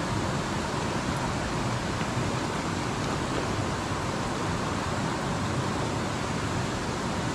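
Mountain stream water rushing over rocks: a steady, even hiss that does not change.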